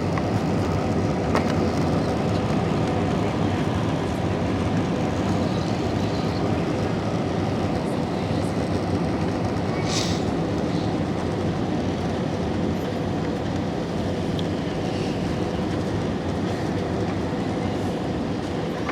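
Steady rumble of an airliner heard from inside the passenger cabin, on its arrival and landing, with a steady faint hum under it. A brief hiss about ten seconds in.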